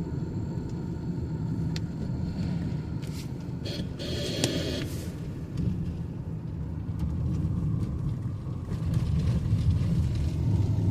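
Steady low rumble of a car's engine and tyres heard from inside the cabin while driving, with a few faint clicks and a brief hiss about four seconds in.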